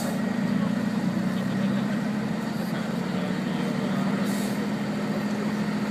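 Tatra 8x8 truck's diesel engine running steadily off-road, with a short burst of hiss about four seconds in.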